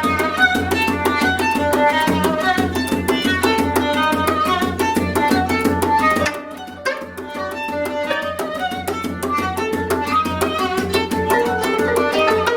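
Korean contemporary improvised music played live: short plucked notes of a gayageum (Korean zither) over fast, even percussion. A low sustained tone underneath drops out about six seconds in, and the music briefly gets quieter.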